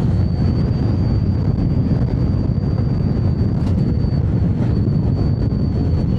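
Wind buffeting the microphone of a rider on a moving electric scooter: a loud, steady low rumble, with a thin, steady high whine above it.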